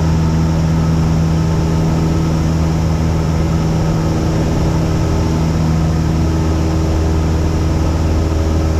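Cessna 172's piston engine and propeller running steadily at takeoff power in the climb, an even drone with a low, constant pitch.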